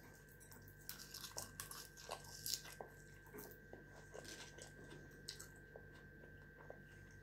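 Faint chewing and biting of food close to the microphone: irregular small crunches and wet clicks, a few louder bites in the first couple of seconds.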